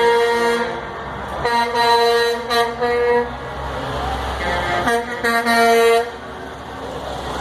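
Truck air horns sounding in three long blasts, the last about five seconds in, with truck engines rumbling between them.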